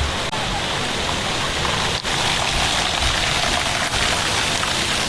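Steady rush of falling and splashing water from water-park slides and pools.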